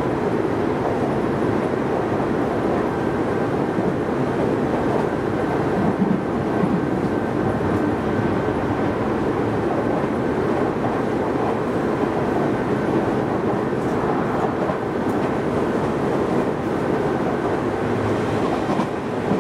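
Tobu Railway electric train running at speed, heard from inside the passenger car: a steady rumble of wheels on rails with a faint steady whine above it.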